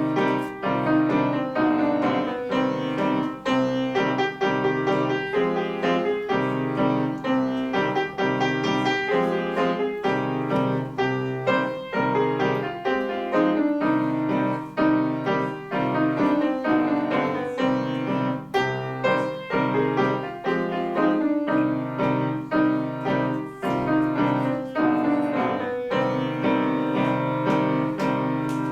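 Solo piano playing a classical piece: a steady, quick flow of notes and chords over a repeating low bass figure.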